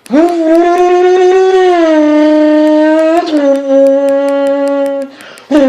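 A person imitating a car engine revving with their voice, loud and held. It swoops up into a long steady note, steps down to a slightly lower held note about three seconds in, breaks off near the end, then swoops up again.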